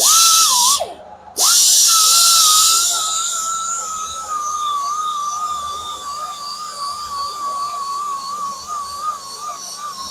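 High-speed grinder whining at a steady, slightly wavering pitch while grinding curb rash out of an alloy wheel rim. Loud rasping contact fills the first three seconds and then eases off. About a second in, the whine falls sharply in pitch and goes briefly quieter before spinning back up.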